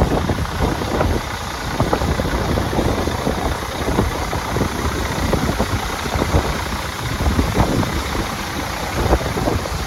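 2006 Volvo VNL semi truck's diesel engine idling steadily, with a rapid even clatter.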